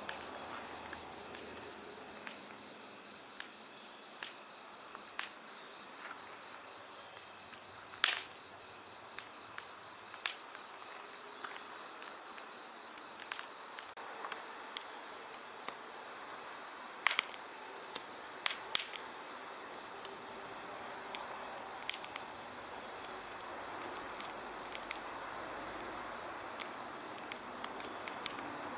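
Wood campfire crackling, with scattered sharp pops, the loudest about eight seconds in. Insects chirp steadily underneath in an even, repeating pulse with a high thin trill.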